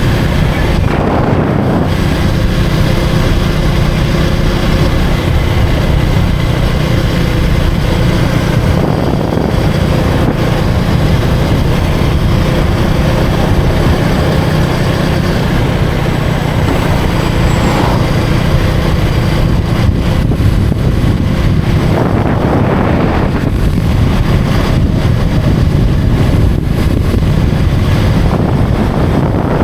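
Motorcycle engine running while riding through traffic, with a steady low engine note and wind noise on the microphone.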